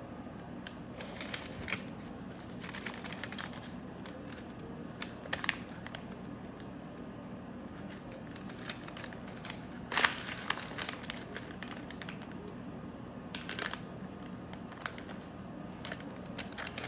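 Parchment paper rustling and crinkling, with scattered short scrapes and clicks, as a bottle cap is pressed down through soft donut dough to cut the hole. The loudest bursts come about ten seconds in and again a few seconds later.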